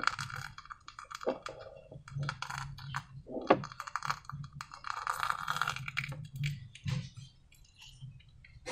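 Slime being worked by hand, giving a run of sticky clicks and crackles, with denser crackling near the start and again about five seconds in.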